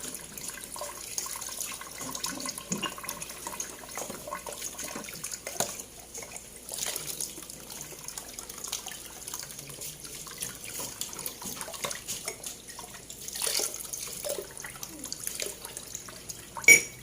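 Water running from a tap into a sink, with small scattered knocks and clinks and one sharp knock near the end.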